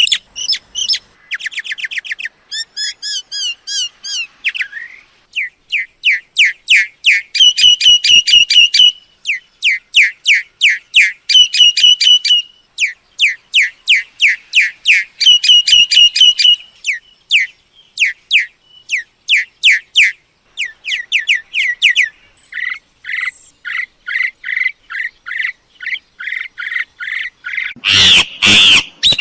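Myna calls: quick runs of short whistled notes and chatter repeated in bursts, with a harsher rasping burst near the end. It is a lure-call recording played to draw mynas in for trapping.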